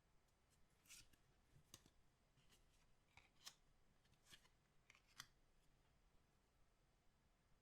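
Faint handling of trading-card packs and packaging: a string of about eight short, sharp clicks and crinkles over a few seconds, then quiet room tone.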